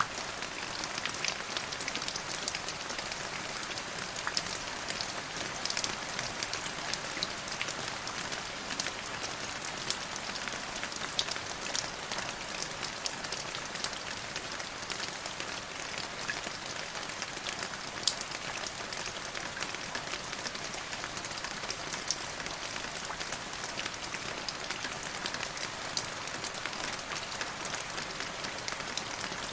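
Steady rain falling on a surface: a constant hiss with many distinct drops ticking through it.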